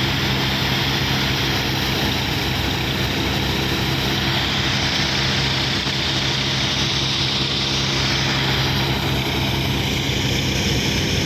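John Deere tractor's diesel engine running at a steady speed, with an even low drone.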